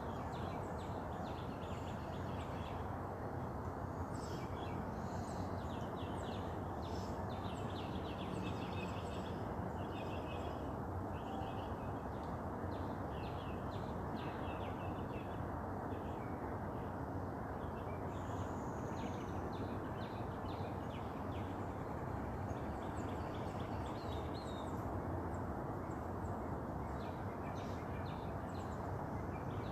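Several birds chirping and singing in short, scattered phrases over a steady low background noise.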